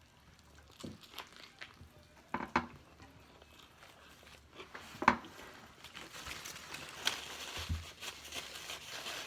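Eating sounds from someone biting into and chewing a messy Burger King Double Whopper: scattered wet mouth clicks and smacks, with paper crinkling denser in the second half.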